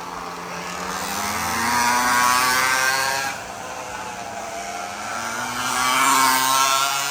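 Small 49cc mini bike engines racing at high revs, swelling twice as they rise in pitch and then dropping off sharply each time.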